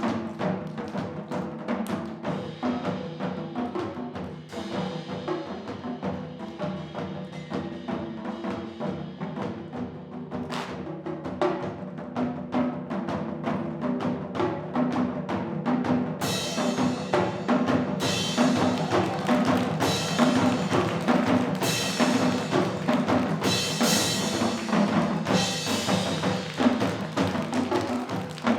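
Live Korean fusion percussion music: drums beaten in a fast, dense rhythm over held pitched tones, with bright cymbal crashes about every two seconds from about halfway through.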